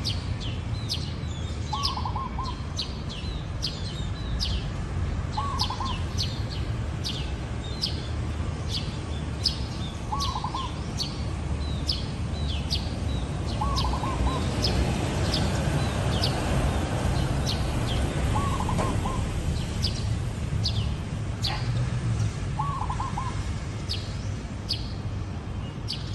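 Zebra dove cooing: a short, rippling, quavering phrase repeated six times, roughly every four seconds. Rapid high chirps of another small bird and a steady low rumble run underneath.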